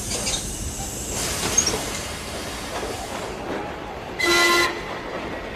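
A train running, with a thin high wheel squeal early on. A short horn blast sounds about four seconds in.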